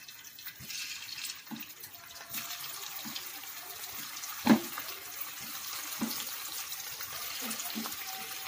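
Vegetable Manchurian balls sizzling steadily as they shallow-fry in hot refined oil in a kadhai, with soft plops as more balls are dropped in. The sizzle grows a little as the pan fills. There is a sharper knock about four and a half seconds in.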